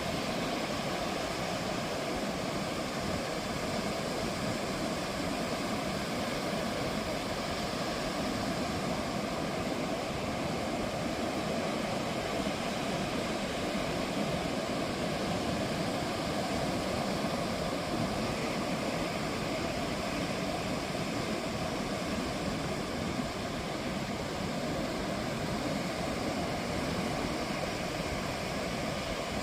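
Ocean surf washing onto the beach: a steady, continuous rush with no single breaking wave standing out.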